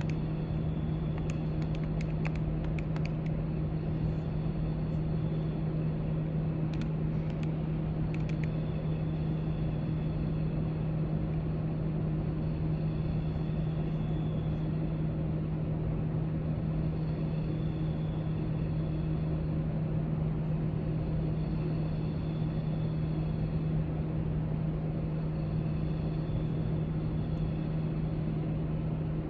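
Steady low hum of library room ambience, one even drone with a constant low tone. A few faint light clicks and ticks come in the first eight seconds or so.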